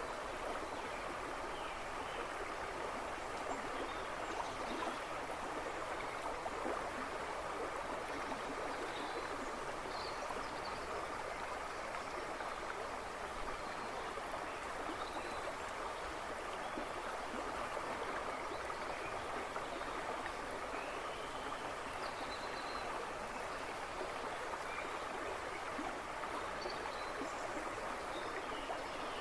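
A shallow river or brook rushing and babbling steadily over stones, with faint, scattered bird chirps in the background woods.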